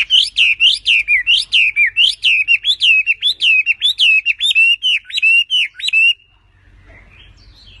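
Chinese hwamei (melodious laughingthrush) singing a fast run of loud, swooping whistled notes, about three to four a second, breaking off suddenly about six seconds in.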